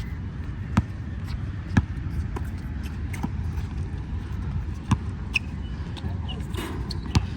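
Basketball bouncing on a court during play: a handful of sharp, unevenly spaced bounces over a steady low background rumble.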